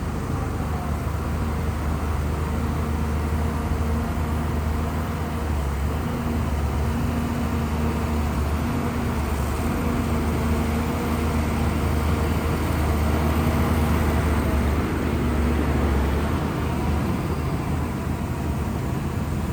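Shantui bulldozer's diesel engine running steadily as it works, with a low hum that grows somewhat louder about two thirds of the way through.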